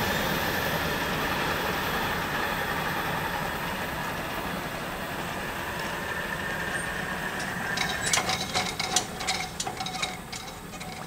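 Amtrak passenger train going away after passing a grade crossing, its rumbling rush slowly dying down. In the last few seconds a run of sharp clicks and ticks comes over the top.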